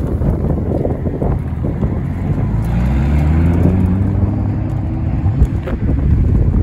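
Ford GT's twin-turbo V6 engine rumbling at low speed as the car rolls past, then its note rising about three seconds in as it accelerates away.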